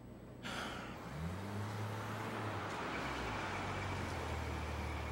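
A car engine running low as the car rolls slowly, its pitch rising briefly about a second in, then holding steady, over a light hiss.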